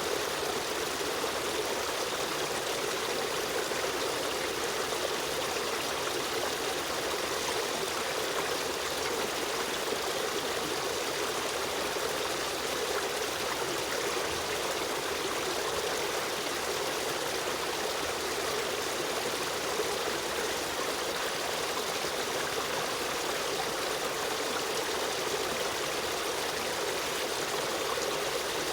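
A river stream running steadily, a continuous rushing and trickling of flowing water with no change in level.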